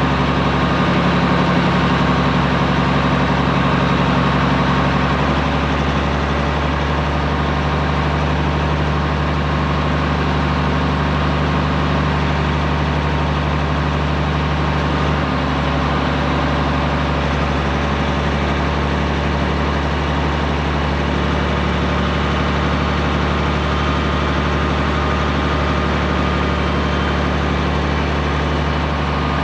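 Straight-piped Peterbilt 389 semi truck's diesel engine running at a steady speed, its note holding an even pitch throughout.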